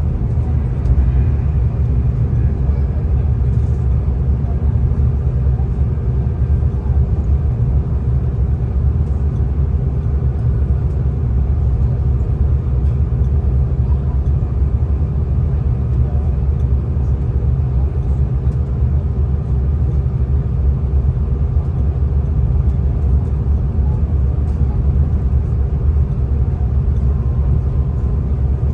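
V/Line passenger train running along the line, heard from inside the carriage: a steady low rumble with a faint even hum over it.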